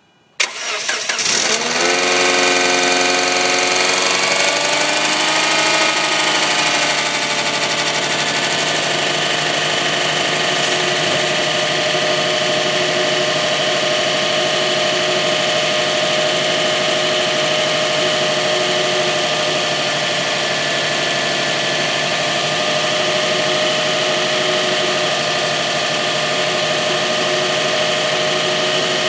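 2005 Subaru Legacy GT's turbocharged flat-four boxer engine started from cold: a short crank about half a second in, then it catches and runs at a fast idle whose pitch shifts over the next several seconds before settling into a steady idle. The owner hears a weird fluttering noise at this cold start-up and does not know its cause.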